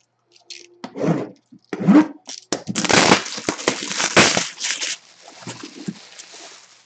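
Plastic shrink-wrap being torn off a trading-card box and crumpled by hand, with a few sharp handling clicks first and a dense crinkling burst in the middle that dies down to a light rustle.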